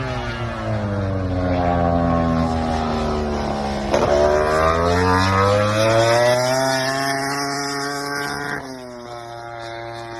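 MotoGP race motorcycle engine at full song. Its pitch falls over the first few seconds, then jumps and climbs sharply about four seconds in, and sinks away again toward the end.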